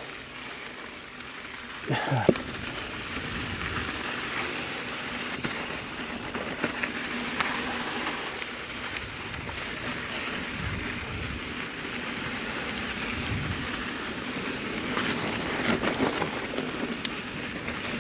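A mountain bike rolling over a dirt and gravel trail: steady tyre and trail noise with scattered clicks and rattles, and a brief falling tone about two seconds in.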